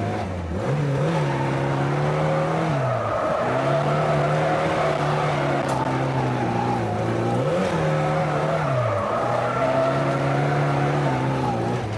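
Lada drift car's engine held at high revs with its tyres spinning and squealing on studded winter tyres. The revs drop off and climb back twice, about three seconds in and again near nine seconds.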